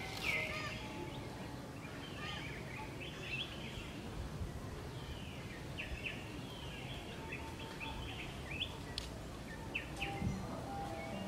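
Birds chirping in short, repeated calls over a steady low outdoor rumble.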